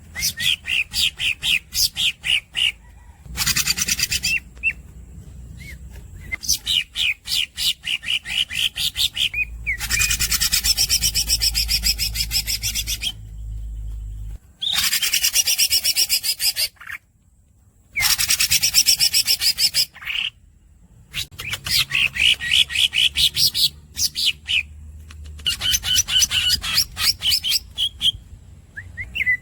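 Green leafbird (cucak hijau) singing: phrases of fast, repeated squeaky chirps alternate with long rolling trills that run several seconds each, broken by short pauses.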